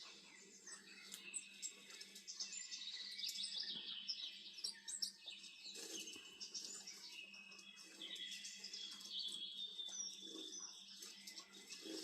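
Songbirds chirping and singing over one another in a busy, continuous chorus, played through a television's speakers from a bird video, with a faint steady hum underneath.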